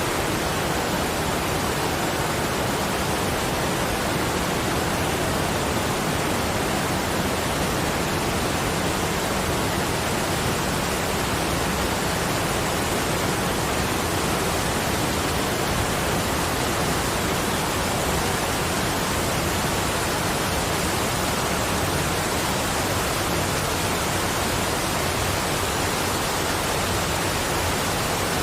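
Steady, even rush of falling water, with no separate drops, splashes or chimes standing out.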